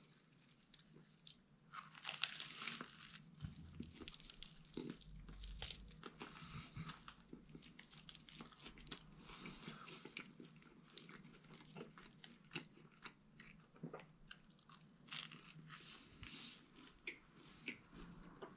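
A person chewing a mouthful of sub sandwich close to the microphone, faint, with irregular small mouth clicks and smacks.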